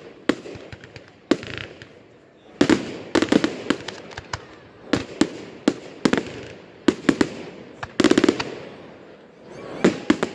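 Fireworks going off: many sharp bangs in irregular clusters, some in quick crackling runs, with an echo after the loudest.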